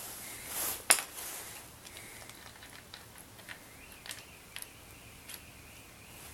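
Metal tools and engine parts being handled: a short scrape, then one sharp metallic clink about a second in, followed by scattered light clicks and ticks.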